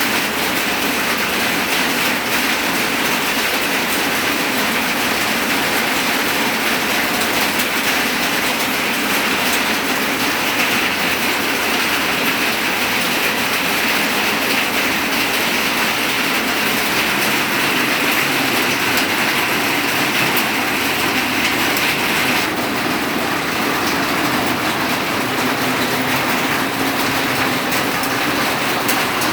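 Heavy rain pouring down steadily, a dense hiss of countless drops, at the height of a downpour. The highest part of the hiss eases slightly about two-thirds of the way through.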